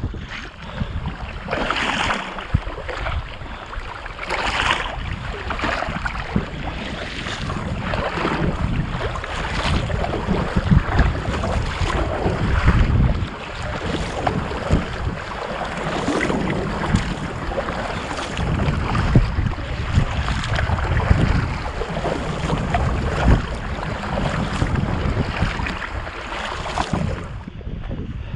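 Water splashing and slapping around a kayak being paddled at sea, with wind buffeting the microphone as a heavy low rumble. A couple of louder splashes come near the start.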